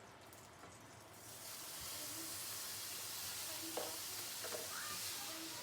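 Food sizzling in hot oil as a steady hiss, starting up about a second in, with a couple of faint light utensil clinks.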